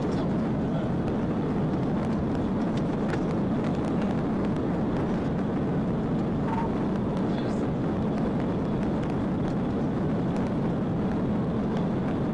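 Steady road, tyre and engine noise inside a police patrol car driving at high speed during a pursuit, heard through its dashcam as an even rush with no change.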